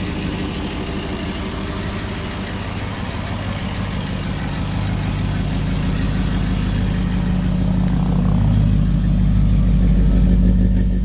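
1972 International Scout II's V8 running at idle through its dual exhaust, steady and even, growing louder through the second half and easing off at the very end. The engine sounds healthy and smooth.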